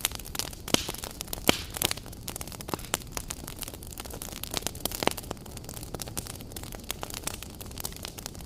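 Wood fire crackling, with irregular sharp pops and snaps over a steady hiss of burning logs; the loudest pop comes about a second and a half in.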